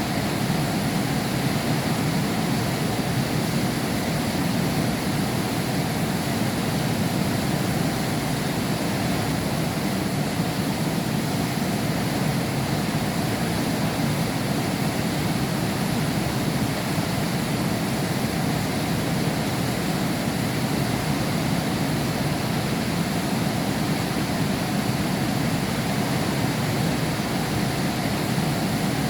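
Heavy rain falling steadily, heard from behind a window pane as an even, unbroken hiss with a deep rumbling undertone.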